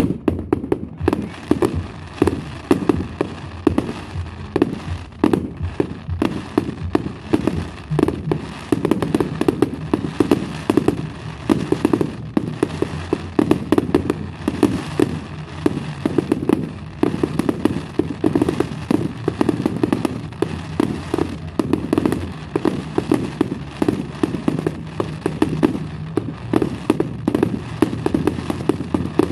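Public firework display: a rapid, unbroken barrage of bangs and cracks, many a second.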